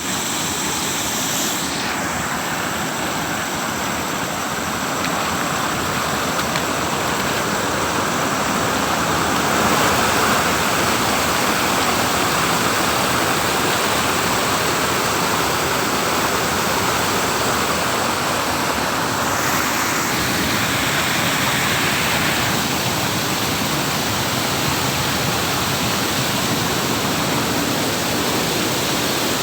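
Steady rush of a waterfall's falling water, its tone shifting a little a few times.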